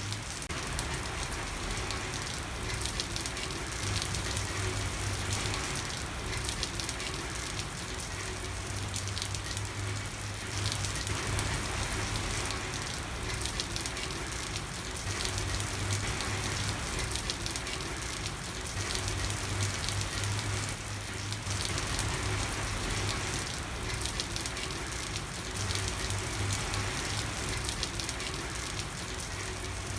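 Steady rain falling on a street, with many small drop ticks over an even hiss. A low hum fades in and out beneath it.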